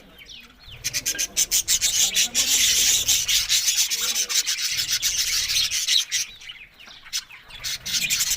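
Budgerigars chattering in a scratchy, rasping run of rapid clicks with a few short chirps, loudest from about a second in until about six seconds.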